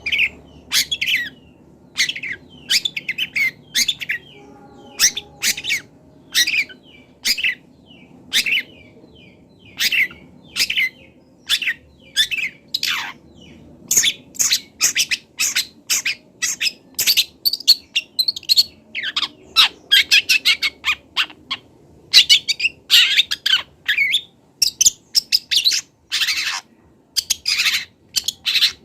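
Young long-tailed shrike (cendet) singing: irregular bursts of short, sharp chirps and quick downward-sweeping notes, the shrike's busy song of mimicked phrases as it learns.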